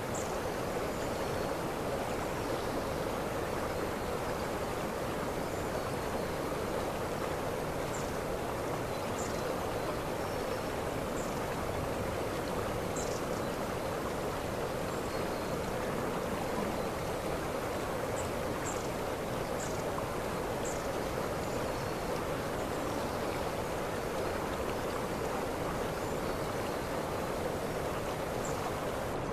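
Waterfall rushing steadily, an even wash of falling water. Brief high chirps sound now and then over it.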